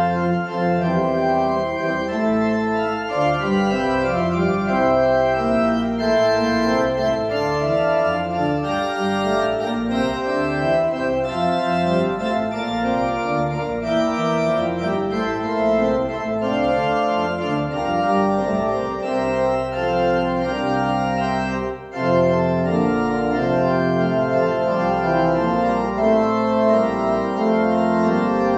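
Organ playing a postlude in full, sustained chords over a moving bass, with a brief drop in sound about 22 seconds in.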